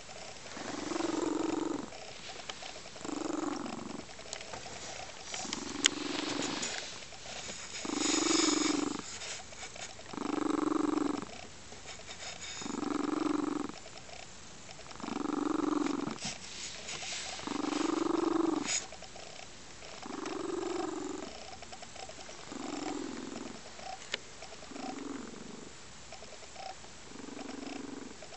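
A cat purring in slow, even swells, rising on each breath about once every two and a half seconds.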